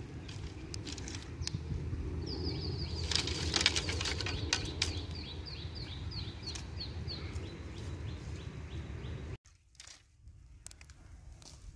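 A bird calling a fast series of short, high, falling notes, about three or four a second, for some five seconds, over a steady low rumble. Sharp clicks and snaps of dry sticks being handled are loudest about three to four seconds in. The rumble cuts off suddenly near the end.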